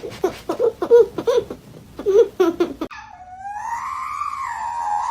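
Quick, short vocal bursts like laughter. Then, about three seconds in, after an abrupt cut, an animal gives a long wavering wail that rises and falls in pitch.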